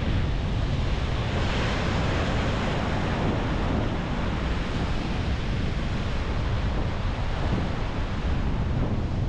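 High sea surf breaking on the beach, a continuous wash of water with a wave crashing more loudly about a second and a half in. Wind buffets the microphone throughout.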